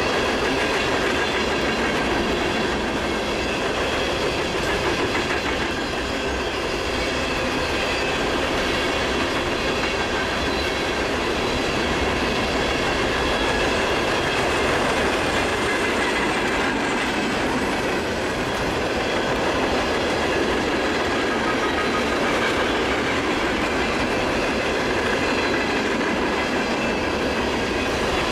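Empty coal train's hopper cars rolling past at speed, steel wheels clattering on the rails in a steady, continuous din.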